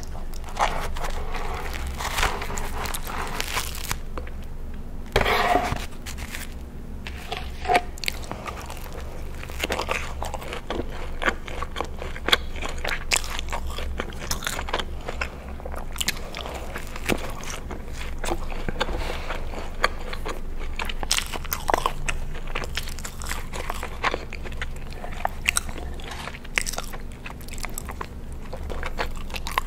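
Close-miked eating sounds: biting into and chewing soft breadsticks and baked cheesy alfredo pasta, with many small wet mouth clicks throughout.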